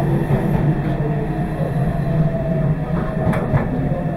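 Meitetsu 2200 series electric train running, heard from inside the car: a steady low rumble with faint steady whining tones, and two clicks about three seconds in.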